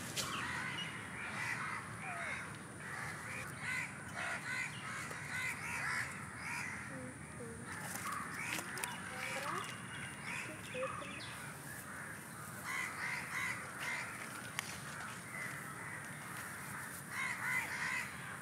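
Birds calling outdoors in clusters of short, quickly repeated calls, with pauses between the clusters.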